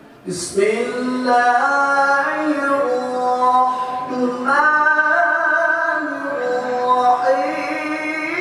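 Melodic Qur'an recitation (tilawah) by one voice. It starts about a third of a second in and holds long, ornamented notes that step and slide between pitches.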